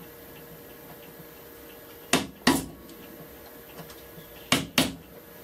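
Sharp wooden knocks of hand-tool work on a hardwood plane body as screw holes are chiselled out: two quick pairs of strikes, about two seconds in and again near the end.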